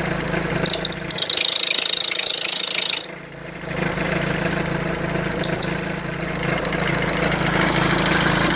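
Mercedes-Benz C-Class engine idling at a standstill. From about a second in, a high hissing squeak rides over the idle for about two seconds, then the engine idles on alone. The squeak, which appears when the steering is turned slightly, came from a failing alternator overrunning pulley.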